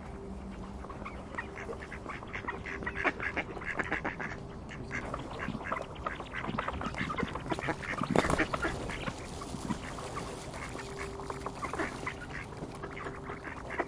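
A group of ducks quacking in a rapid, overlapping chatter, with one louder, noisier burst about eight seconds in. A faint steady hum sits underneath.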